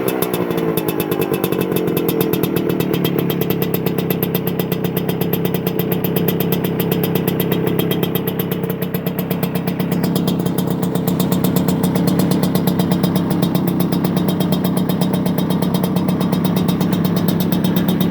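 Vespa PX125 scooter's two-stroke single-cylinder engine with a Polini aftermarket exhaust, its revs falling away just at the start and then idling steadily with evenly spaced exhaust pulses.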